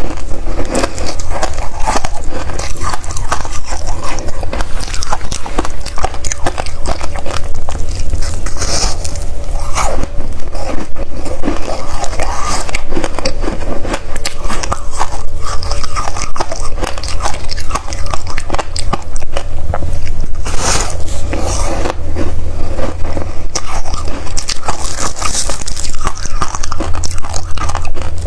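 Freezer frost being bitten and chewed close to the microphone: a dense, continuous run of crunching and crackling.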